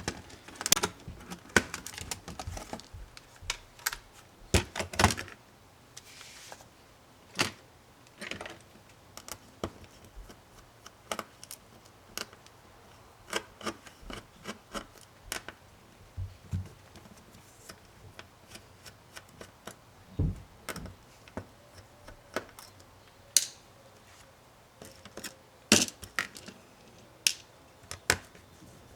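Irregular sharp clicks, taps and small knocks of tools and plastic and metal laptop parts being handled and pried apart during disassembly of an Acer Chromebook Spin 11, with a few louder snaps near the start, about five seconds in and near the end.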